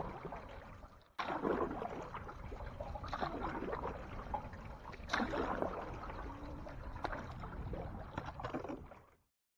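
Canoe paddling: water splashing and swirling with each paddle stroke, a stroke every second or two. The sound drops out briefly about a second in and cuts off abruptly near the end.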